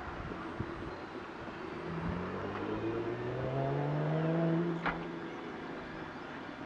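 A motor hum starting about two seconds in, rising slowly in pitch for about three seconds, then cutting off, with a sharp click as it ends.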